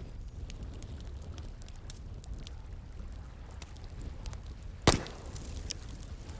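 Wood fire crackling with scattered small snaps and one loud pop about five seconds in, over a steady low rush of running water.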